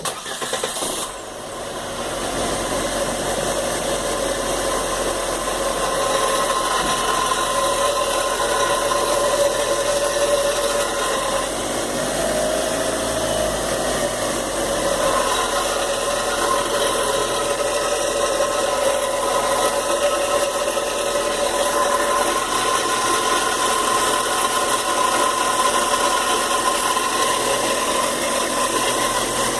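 Fiat Grand Siena engine cold-started: it catches right at the start and settles within a couple of seconds into steady running, with a steady whine-like tone over the engine. This is the abnormal noise the owner hears on the first cold start.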